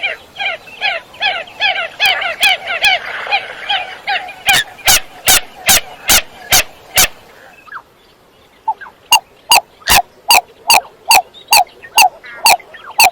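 Common coots calling: a fast run of short falling notes for the first few seconds, then loud, sharp, clipped calls repeated about two or three a second, with a brief pause about eight seconds in.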